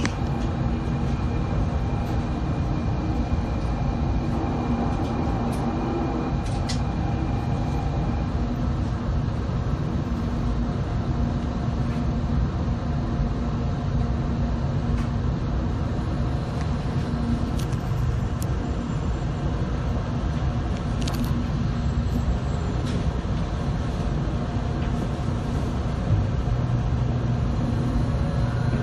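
Inside a 700 series Shinkansen car as it rolls slowly along the platform to stop: a steady low running rumble, with a faint high whine that stops about eight seconds in.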